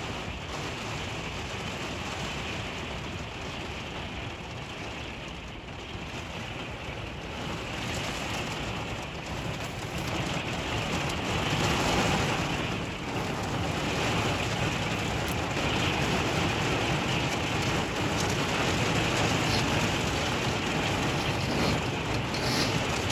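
Heavy rain pelting a vehicle's windshield and roof, heard from inside: a steady downpour that grows louder about halfway through.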